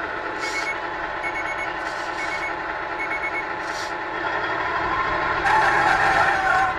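Simulated truck engine idling steadily from the GT Power sound kit's speaker, with a reversing beeper going off about once a second in the first half. Near the end, a louder, noisier sound lasts about a second.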